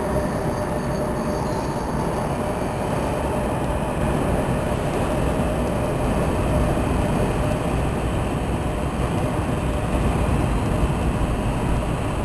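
NJ Transit ALP-46 electric locomotives and Arrow III electric multiple-unit cars rolling past close by on a station track. Their wheels make a continuous rumble on the rails, with a steady hum over it in the first couple of seconds.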